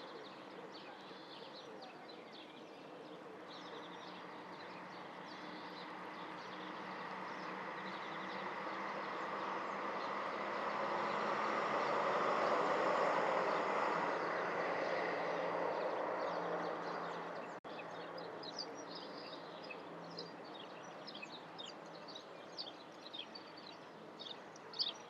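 A passing vehicle's noise swells to a peak about halfway through and fades away, with small birds chirping throughout, more busily in the last few seconds.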